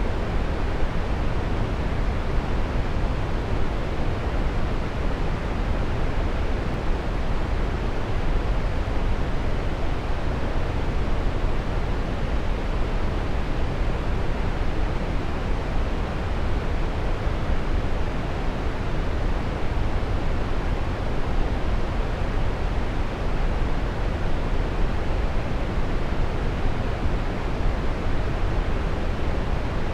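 Waterfall rushing: a steady, even roar of falling water with no breaks or changes, deepest in the low end.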